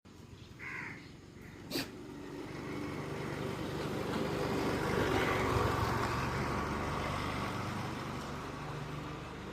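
A motor vehicle passing by on the street, its engine and tyre noise growing louder to a peak mid-way and then fading away. A short bird call sounds near the start, followed by a sharp click.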